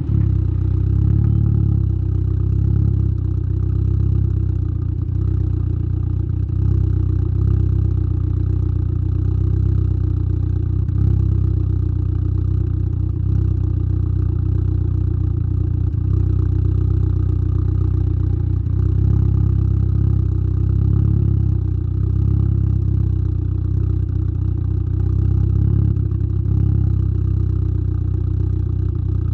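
Exhaust of a tuned Saab 9-3's turbocharged B204 2.0-litre four-cylinder, with a 3-inch downpipe and Simons muffler, heard at the tailpipe. The engine runs steadily at low, nearly constant revs.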